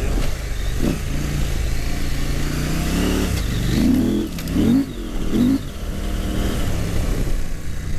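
Husqvarna Norden 901 adventure motorcycle's parallel-twin engine running under riding load, its revs rising and falling several times in quick succession near the middle as the throttle is worked through mud.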